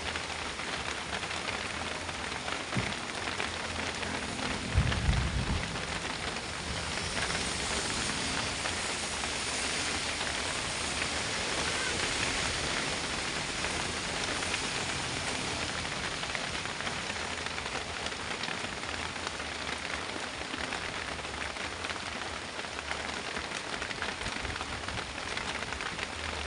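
Heavy rain falling on a truck as it drives, a dense even hiss, with a brief low thump about five seconds in.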